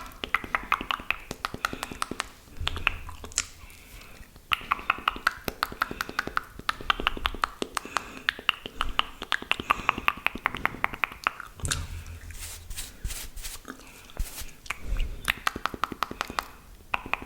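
Close-miked wet mouth sounds: rapid strings of saliva clicks, lip smacks and pops, coming in clusters with short pauses between them.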